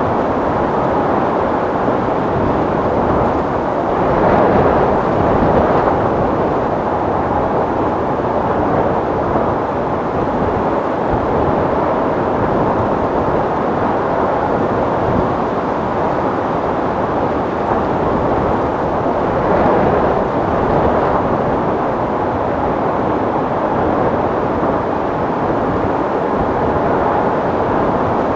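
Strong wind blowing steadily, with two louder gusts, one about four to six seconds in and another around twenty seconds in.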